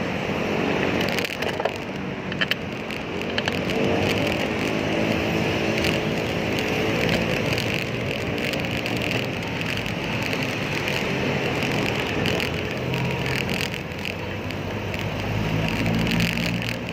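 Road traffic heard from a moving bicycle. Vehicle engines pass over steady road and wind noise, and a low engine hum swells near the end.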